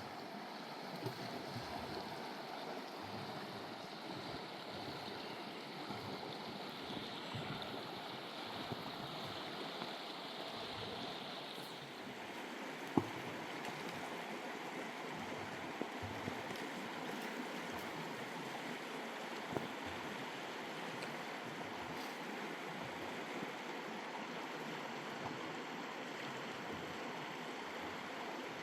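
Fast-flowing mountain river rushing steadily, with a few sharp clicks, the loudest about halfway through.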